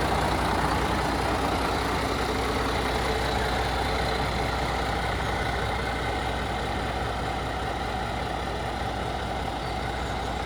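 Scania truck's diesel engine running steadily, slowly getting quieter.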